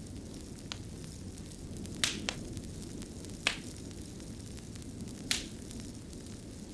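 A fire burning with a steady low rush, broken by five sharp crackling pops.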